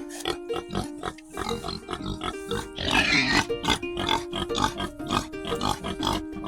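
Domestic pig grunting in a rapid series of short grunts, with a louder, harsher call about three seconds in.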